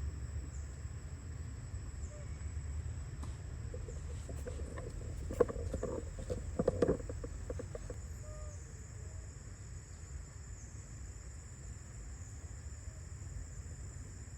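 A few short animal calls mixed with sharp clicks, clustered in the middle and loudest about five and a half to seven seconds in. Under them runs a steady low rumble, with a thin, high, steady insect-like whine on top.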